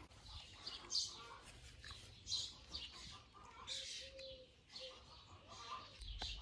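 Birds chirping faintly: short, high chirps repeated every second or so.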